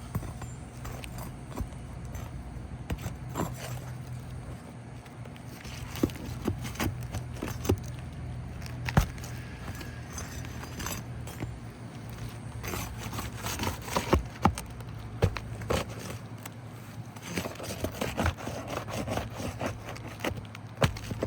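Nails being pried out of asphalt roof shingles with hand tools: irregular scraping with sharp metallic clicks and knocks, the loudest about nine seconds in and a busy run of them around fourteen seconds.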